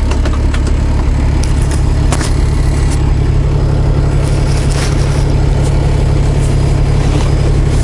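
Semi truck's diesel engine idling, a steady low rumble with a few faint clicks over it.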